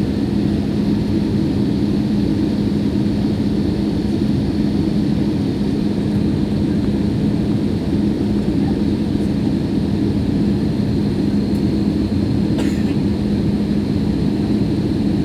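Steady engine and airflow drone heard inside the cabin of an AirAsia Airbus A320-family jet on its approach to land, with a strong, even low hum throughout.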